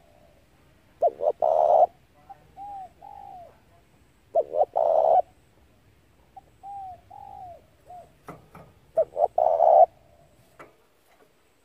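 Spotted dove cooing its territorial call: three loud phrases about four seconds apart, each two short coos and a longer one, with quieter curved notes between them and a few sharp clicks in the second half.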